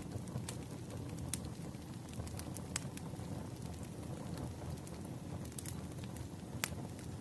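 Firewood burning, crackling with a steady low rumble and irregular sharp pops.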